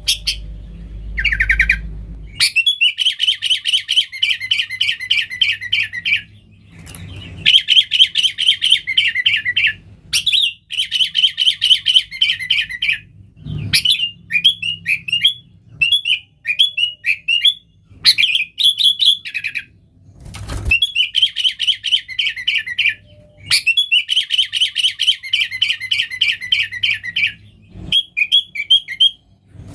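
Sooty-headed bulbul singing energetically: fast chattering phrases of two or three seconds each, repeated with short pauses, with slurred whistled notes in between. A few low thumps sound now and then.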